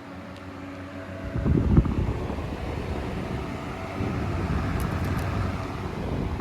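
Box fan running, with a loud low rush of air rumbling on the microphone that starts about a second in, peaks briefly, and cuts off suddenly at the end.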